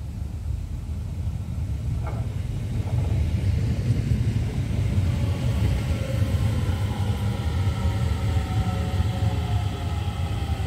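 DART electric commuter train running past on the near track: a low rumble builds from about two seconds in, with a faint whine that falls in pitch over the second half.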